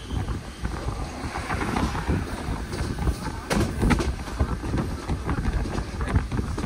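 Passenger train running along the track: a steady low rumble with a few sharp knocks about halfway through.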